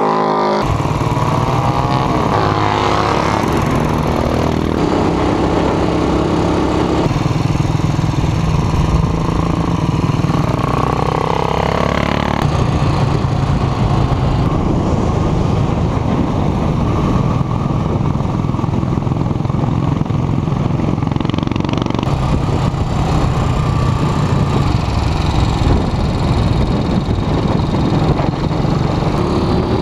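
Classic racing motorcycles running on track, engines revving with pitch rising and falling as the bikes accelerate and pass, the sound changing abruptly every few seconds between shots.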